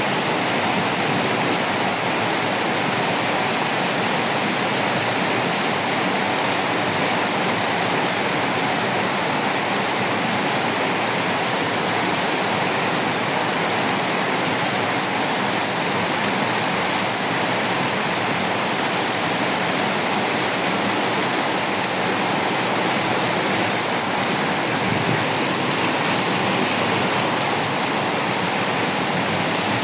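Torrential rain pouring down in a steady, even rush of water noise that does not let up.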